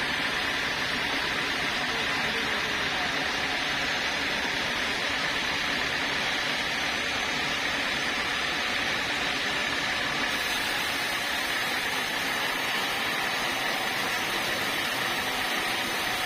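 Sawmill saw running steadily, a constant mechanical noise with a steady high whine.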